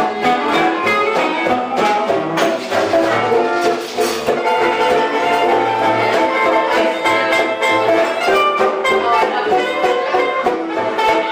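Live band playing instrumental music with a steady rhythm.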